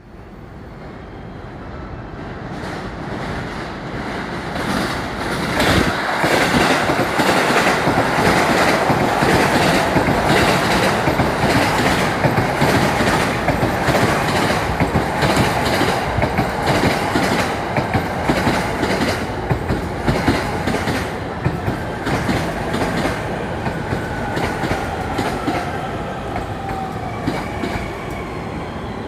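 Electric commuter train running into a station at speed, its wheels clattering over the rail joints as it passes close by. It grows louder over the first few seconds, then eases off near the end with a falling whine as the train slows.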